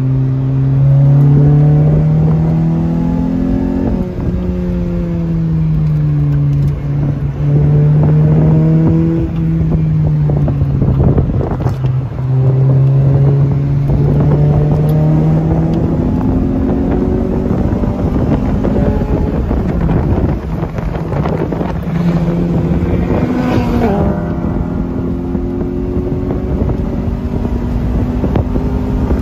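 Lotus sports car engine heard from inside the cabin at speed on a race track. The revs climb and fall back at each gear change, with a quick rev blip late on, over steady wind and road noise.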